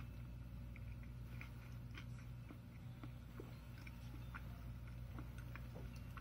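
Quiet chewing of a mouthful of veggie burger, with faint scattered clicks from the mouth over a steady low hum.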